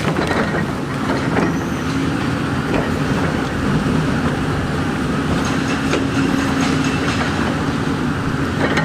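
Diesel engine of heavy earthmoving equipment running steadily at constant speed, with scattered short knocks and clatter.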